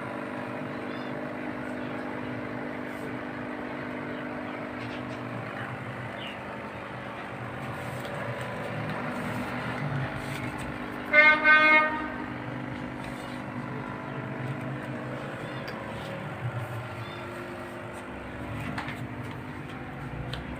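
A steady low hum, with a vehicle horn sounding loudly about halfway through, two quick blasts lasting about a second in all. A few faint chirps here and there.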